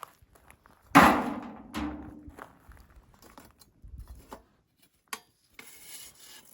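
A loud sharp knock of hard objects striking, with a brief ringing tone after it, followed under a second later by a second, softer knock; faint scattered clicks and taps follow.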